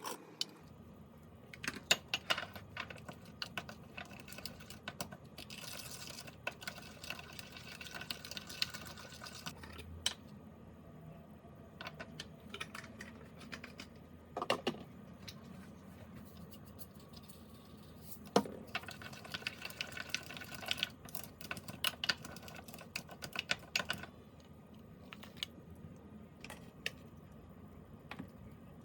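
Kitchen work sounds: many quick clicks and knocks of utensils and dishes, with two stretches of hissing noise, one about five seconds in and one about nineteen seconds in.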